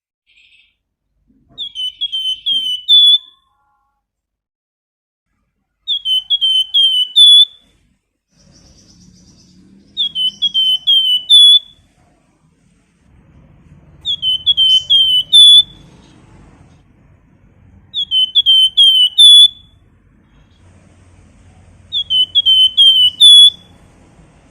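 A flamboyan songbird whistling (nyiul): six phrases about four seconds apart, each a quick run of four or five high, hooked notes, the last one loudest.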